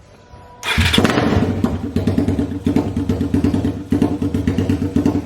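Suzuki Raider R150's single-cylinder engine starting up about 0.7 s in and idling loudly with a rapid, even pulse. It is running through a freshly fitted VMAX Stage 2 exhaust pipe without its canister, being run to check the pipe joints for exhaust leaks.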